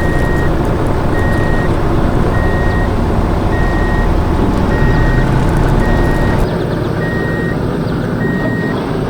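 Heavy vehicle's reversing alarm beeping at an even pace, about one beep a second, over a steady engine rumble that drops a little about six and a half seconds in.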